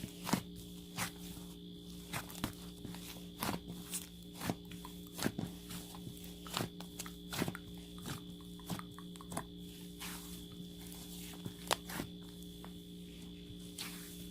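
Irregular light taps and clicks, roughly one or two a second, over a steady hum.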